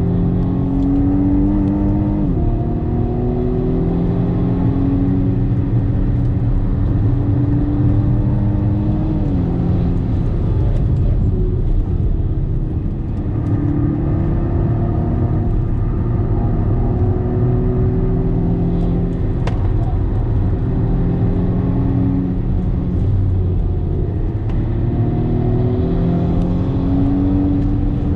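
BMW M135i xDrive F40's turbocharged 2.0-litre four-cylinder heard inside the cabin under hard acceleration on track, the engine note climbing and then dropping sharply at upshifts about 2 and 9 seconds in, with further long pulls after. Constant tyre and road rumble underneath.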